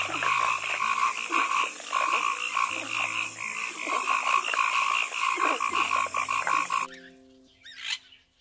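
Frogs croaking in a dense chorus, a fast pulsing trill that cuts off suddenly about seven seconds in. Soft sustained music notes play underneath, and a single short call sounds near the end.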